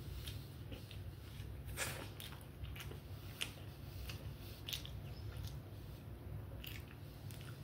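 A person chewing a mouthful of chicken burger: irregular wet clicks and smacks from the mouth, over a steady low hum.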